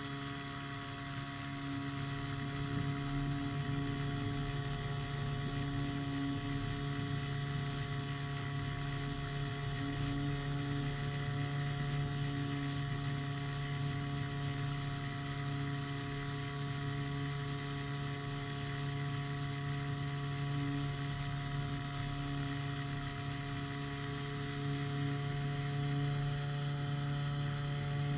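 Powered hang glider's engine and propeller running at a steady pitch, a constant drone.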